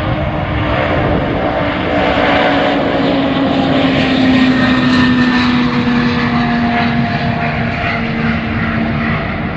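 Antonov An-124's four D-18T turbofan engines at takeoff power: a loud roar that swells to its peak about halfway through, with a strong tone sliding slowly down in pitch.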